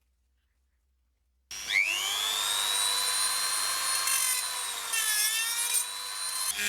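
A small high-speed electric tool motor switches on about a second and a half in and whines up to speed, then runs steadily, its pitch dipping briefly and recovering near the end.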